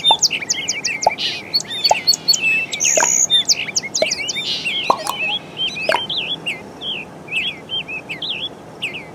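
Several small birds chirping and calling in quick, overlapping short notes, thinning out over the last few seconds.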